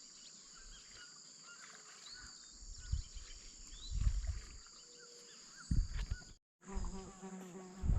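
Steady high-pitched insect drone with scattered short bird chirps, broken by a few low thumps around the middle.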